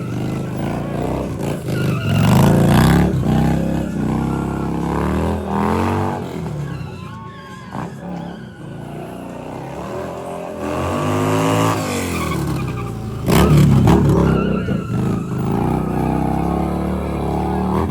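Stunt motorcycle engine revving up and down over and over, with tyres skidding on pavement. It eases off for a couple of seconds midway, then revs hardest near the end.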